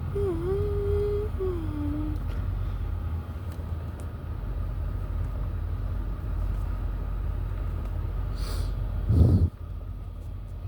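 Steady low rumble of automatic car-wash machinery heard from inside the car's cabin. A person hums briefly near the start. About nine seconds in comes a loud whoosh with a low thump, after which it goes quieter.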